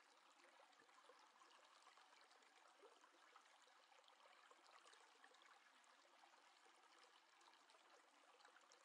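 Near silence: a faint steady hiss with tiny crackles.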